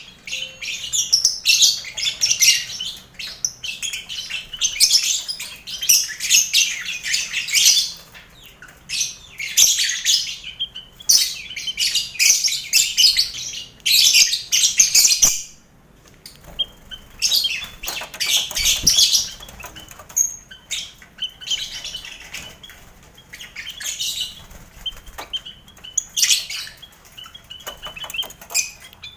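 Lovebirds kept in a colony aviary with finches and quail, chattering and chirping shrilly in dense bouts a few seconds long, with short lulls between them.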